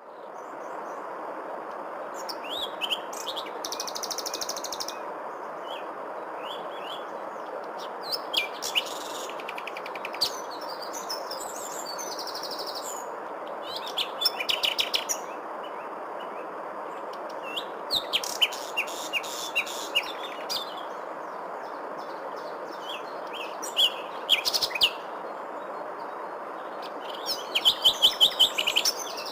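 Songbirds chirping and trilling in scattered bursts over a steady background rush, with a quick run of loud chirps near the end.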